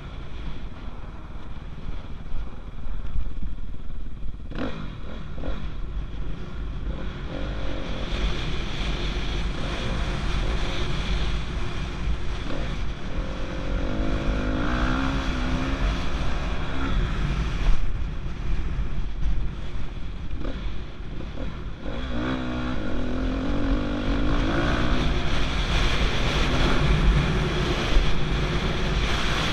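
Motocross dirt bike engine revving up and easing off as it is ridden around the track, its pitch rising and falling repeatedly over a constant low rumble of wind on the microphone.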